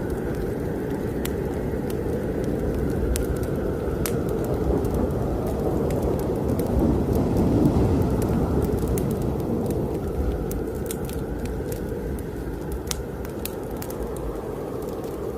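Strong snowstorm wind blowing steadily, swelling into a gust about halfway through and easing off, with the sharp crackles of a wood fire in a fireplace popping throughout.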